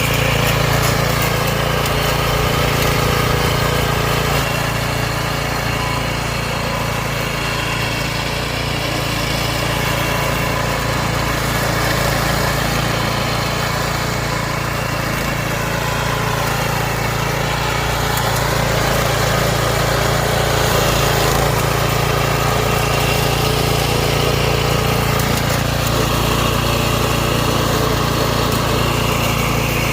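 A homemade radio-controlled lawn mower's engine running steadily, its level easing down and back up slowly as it works.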